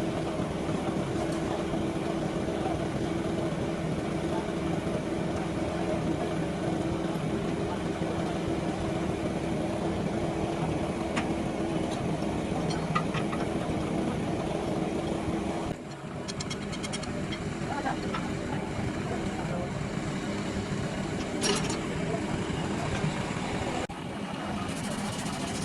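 A machine or motor running with a steady hum, with a few light ticks of metal work over it. The hum dips briefly about two-thirds of the way through and again near the end.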